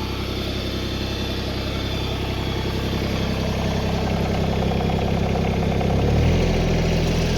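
Tractor engine running steadily at idle, its note shifting and getting slightly louder about six seconds in.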